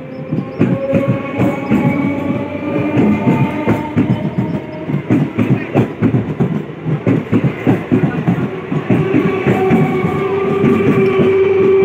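Indian Railways EMU commuter train running past close by, its wheels clattering rapidly over the rail joints, with a faint whine above the clatter. A steady tone grows louder over the last few seconds.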